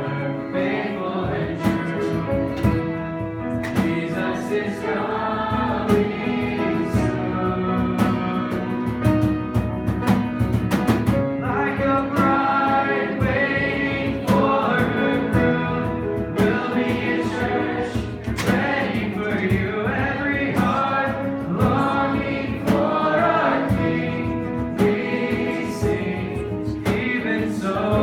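Contemporary worship music: a band playing with a group of voices singing together over a steady beat.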